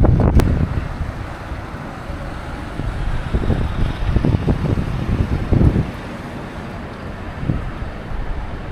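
Gusty wind buffeting the microphone in uneven rumbles over a steady wash of street noise, with one sharp click about half a second in.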